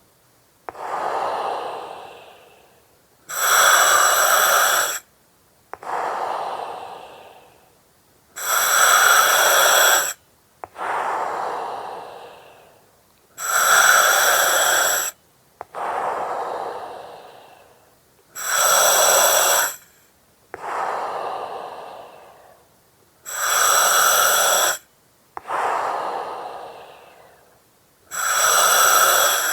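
Breathing through an oxygen mask in a slow, even rhythm of about six breaths. Each breath is a hiss of about a second and a half that starts and stops sharply, then a softer breath that fades away.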